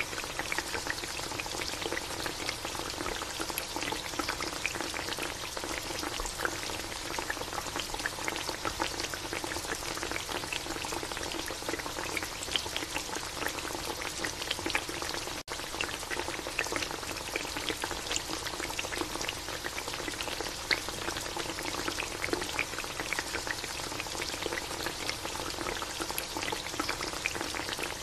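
Chicken adobo sizzling and bubbling in a metal pan in a thick soy-vinegar sauce: a steady, dense crackle of many small pops. The sound cuts out for an instant about halfway through.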